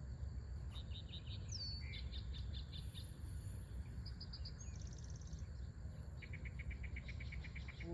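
Night-time chorus of insects: a steady high-pitched trill with repeated runs of short chirps, including a fast pulsing run near the end, over a low steady rumble.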